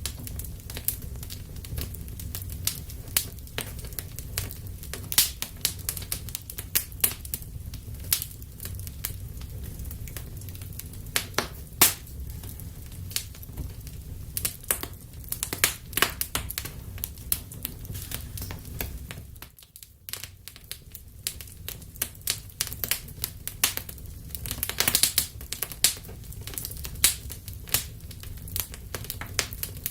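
Wood fire burning in a fireplace: irregular sharp crackles and snaps from the burning logs over a steady low rumble of the flames. There is a short lull about two-thirds of the way through.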